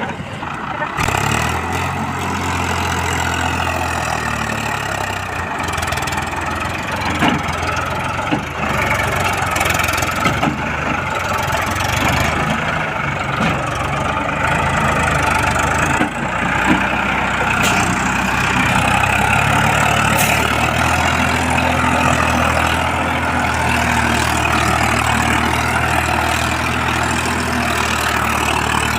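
Farmtrac 60 Supermaxx tractor's diesel engine running steadily under load while it pulls a fully loaded trolley. The engine note picks up about a second in and then holds steady.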